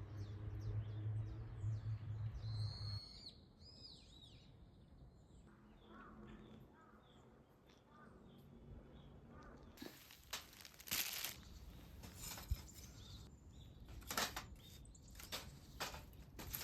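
Small birds giving a few short, arched, high-pitched chirps, over a low hum in the first few seconds; later comes a string of short rustles and knocks.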